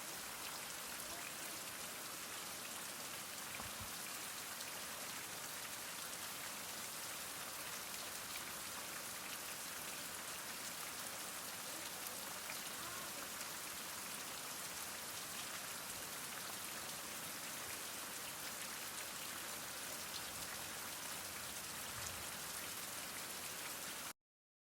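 Heavy rain falling steadily: a dense, even hiss of many drops with faint individual ticks, which cuts off abruptly near the end.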